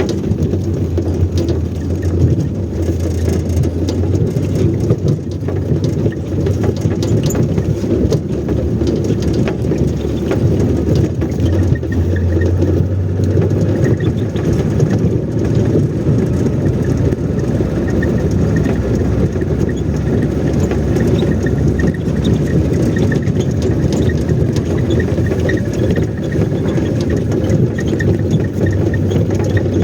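Motor vehicle engine running steadily, a continuous low drone with no letup.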